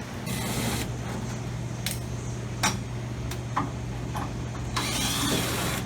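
Scissors in use: a few sharp separate clicks and two short hissy cutting noises, one near the start and one near the end, over a steady low hum.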